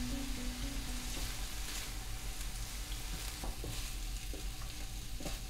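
Chicken mince frying in a pan with a steady sizzle, stirred with a wooden spatula, with a few light taps in the second half.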